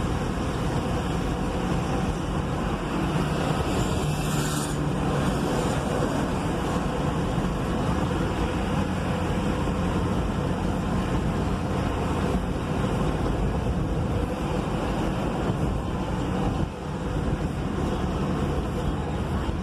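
Everyday city road traffic heard through an open vehicle window while driving: a steady mix of engines and tyre noise, with a brief louder rush about four seconds in.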